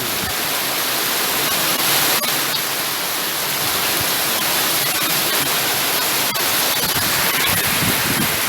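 Heavy rain pouring down steadily, a dense even hiss, with a few sharp ticks of drops striking a hard surface.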